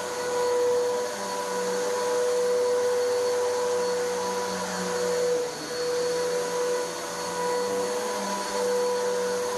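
Vacuum cleaner running over carpet, pushed slowly to pull up dry soil: a steady motor whine over the rush of air, with a brief dip about five and a half seconds in.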